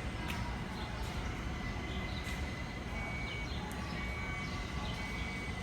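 R160 subway train running through the station: a steady low noise with a thin high steady tone, scattered clicks, and short higher squeals repeating from about halfway in.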